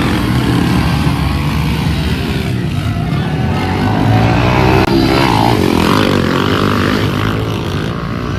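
Pit bike engines running hard during a race, revving up and down, with the pitch rising and falling around the middle as bikes go past.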